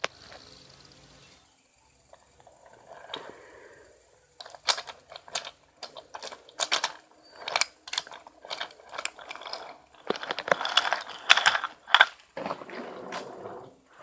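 Subway train wheels clacking irregularly over rail joints and switchwork, a string of sharp metallic knocks that thickens near the end.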